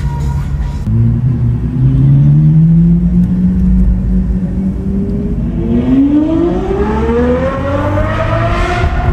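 Ferrari 812 Superfast's V12 engine pulling away and accelerating. Its note rises briefly about a second in, holds steady, then climbs in pitch over the last few seconds as the car speeds up.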